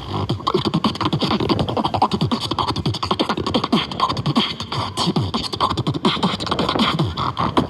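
Fast, continuous beatboxing: a dense stream of sharp mouth clicks laid over many short bass tones that drop in pitch.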